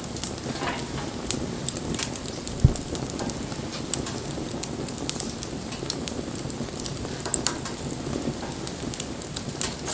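Wood bonfire burning: a steady low rush of flames under frequent sharp crackles and pops, with one louder dull thump about two and a half seconds in.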